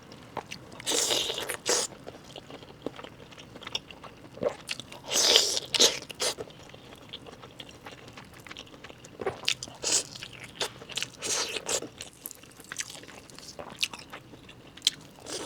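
Close-up eating sounds: bites into and chewing of a large 'pistol' chicken leg, in separate bursts, the loudest about a second in and again about five seconds in, with smaller bites later.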